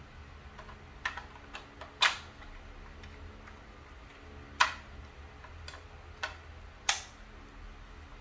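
Irregular sharp clicks and taps, like small hard objects being handled. Four louder ones come about a second, two seconds, four and a half seconds and seven seconds in, with fainter clicks between.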